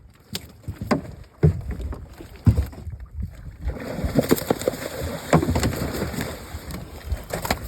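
Knocks and thumps in a boat during net fishing: a few separate knocks, then a denser, louder stretch of clattering and splashing noise from about four seconds in.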